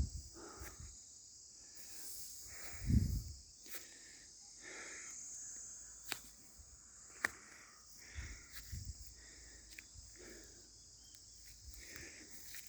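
Steady high insect chorus, typical of crickets, with a few soft low thumps, the loudest about three seconds in, and a couple of sharp clicks.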